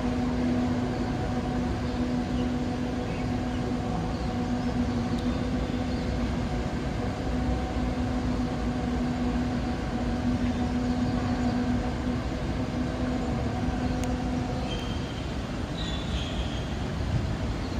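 A steady low droning hum with fainter overtones over a constant rumbling background noise; the hum stops about fifteen seconds in.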